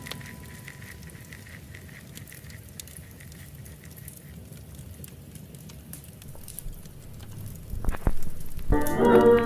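Log fire crackling in a fireplace: scattered small pops and clicks over a soft steady hiss, with a sharper knock about eight seconds in. Instrumental music comes in just before the end.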